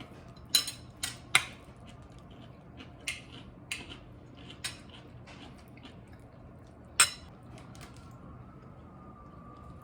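A run of sharp, irregular clinks and clacks of hard objects knocking together, about seven in all, the loudest about half a second, a second and a half and seven seconds in.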